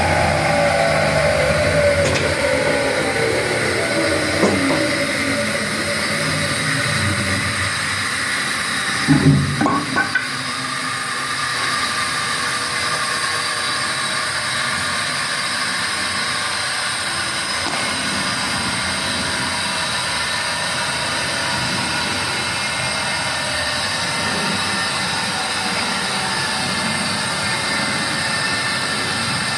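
ШС-1000 woodworking tenoning machine running, its electric motors and cutter heads giving a steady whine of several tones. The pitches slide down over the first few seconds, and a brief loud knock comes about a third of the way in.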